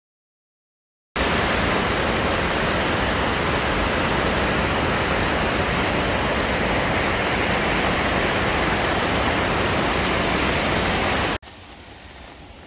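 Waterfall rushing: a loud, steady, even roar of falling water that starts abruptly about a second in and cuts off suddenly near the end, leaving a faint hiss.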